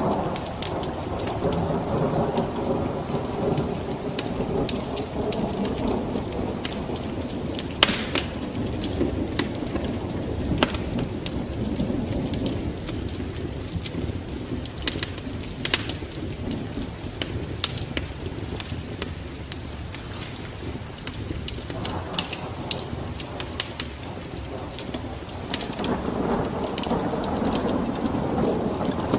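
Fireplace wood fire crackling, with sharp pops scattered throughout, over a low rumble that fades in the middle and swells again near the end.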